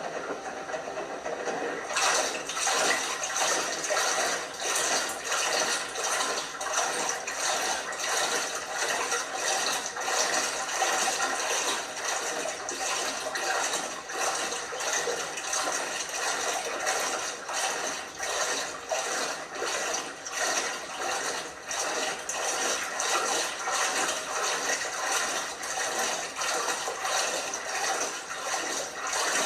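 Water rushing and splashing inside an LG washing machine, growing louder about two seconds in and then holding steady.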